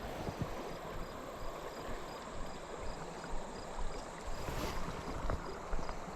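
River water flowing and lapping steadily around a drifting inflatable raft, with scattered small splashes.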